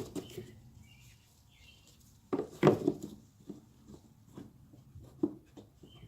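Irregular knocks and clatter of a replacement air filter being pushed and fumbled into a Toyota Camry's air filter box, with the loudest clatter about two and a half seconds in and smaller clicks after it. The filter won't seat, and the owner takes it for the wrong part.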